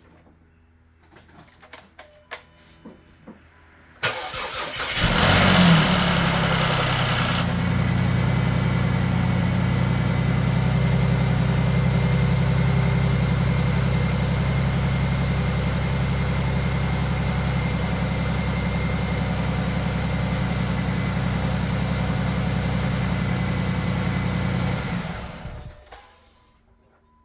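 A few faint clicks, then a swapped-in engine in a 2008 Jeep Liberty cranks briefly, catches with a quick rev and settles into a steady idle on its first start after the engine swap. It idles for about twenty seconds and is switched off near the end.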